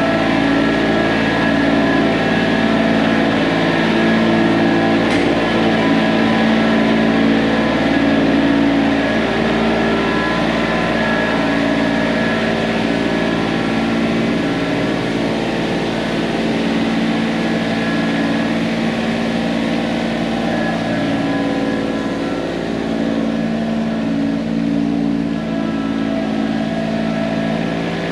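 Diesel engine of heavy earthmoving equipment running steadily, with a constant engine drone throughout.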